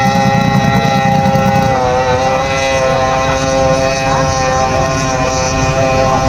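Racing powerboat engine running steadily in a warm-up before the race, holding a high even note that dips slightly about two seconds in.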